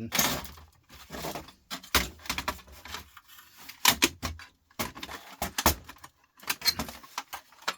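Irregular clicks and clatter of small plastic and metal scrap parts being handled, knocked together and set down on a workbench.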